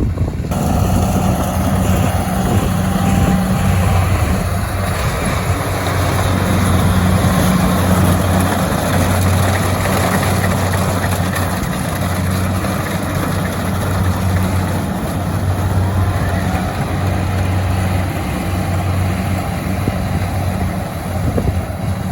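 An engine running steadily with a low, even hum throughout.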